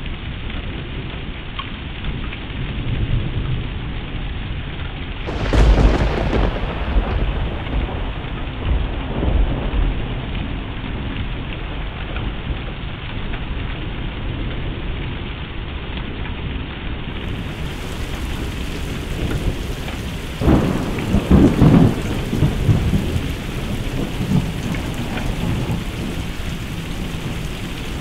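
Thunderstorm: steady rain, with a loud thunderclap about five seconds in and another about twenty seconds in, each rumbling on for a couple of seconds.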